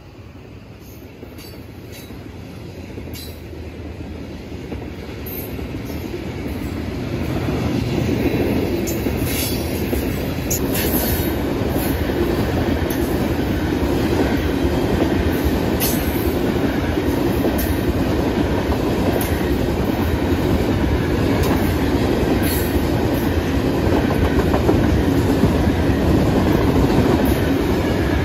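Norfolk Southern coal train rolling past close by: a steady rumble of wheels on the rails with clickety-clack clicks. It grows louder over the first several seconds, then holds steady.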